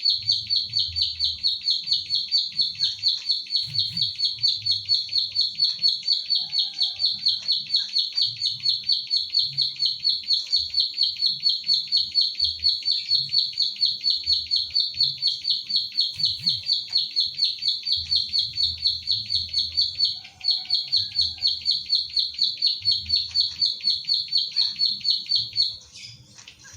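Ciblek sawah (prinia) singing its 'klik klik' song: a rapid, even run of high clicking notes, about five a second, with a brief break about twenty seconds in, stopping shortly before the end.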